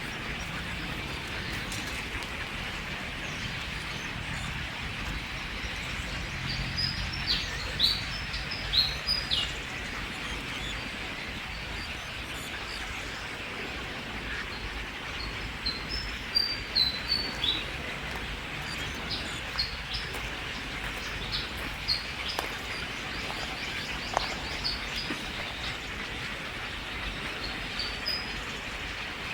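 Birds chirping: short, sharp, high-pitched notes that slide downward, in two quick runs a few seconds apart with single chirps between, over a steady hiss of outdoor ambience.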